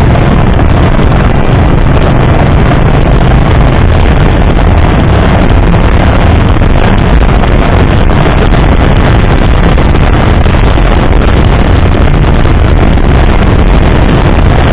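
Loud, steady wind buffeting the microphone of a moving bike, with the rumble of the ride underneath.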